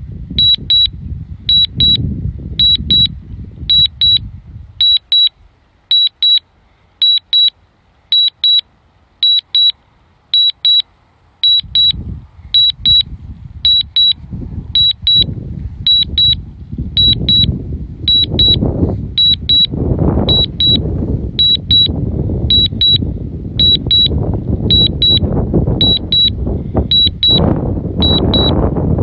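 DJI Mavic Mini remote controller sounding a warning: quick high double beeps repeating evenly, a little more than once a second. Strong wind buffets the microphone underneath; the buffeting dies away about five seconds in and comes back heavier from about twelve seconds.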